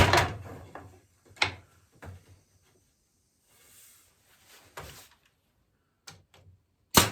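Several separate sharp knocks and clunks with quiet gaps between, from wooden rocking-chair parts and tools being handled during assembly.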